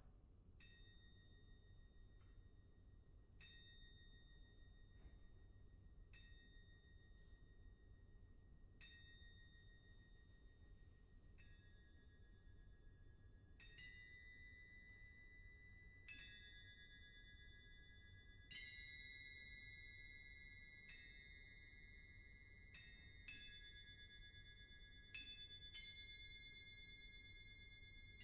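Soft, high, bell-like metal percussion notes, struck one at a time and left to ring. They come about every three seconds at first, then more often from about halfway, overlapping into sustained chords.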